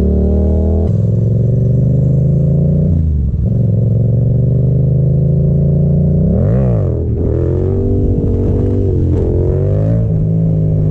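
Yamaha FZ-07's parallel-twin engine running under way, its pitch climbing slowly and dropping suddenly at gear changes about one and three seconds in. A quick rev rises and falls between six and seven seconds in.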